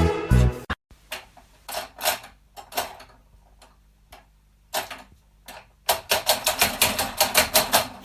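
A short stretch of music cuts off, then a series of sharp clicks or taps, a few scattered ones at first, then a quick, even run of about five a second near the end.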